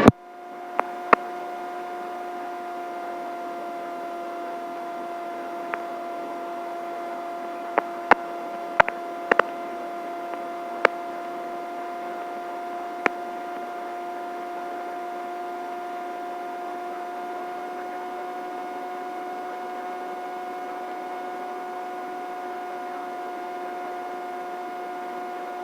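Steady pitched hum of a helicopter in flight, heard through the headset intercom as two even tones an octave apart. Sharp clicks sound now and then through the first half.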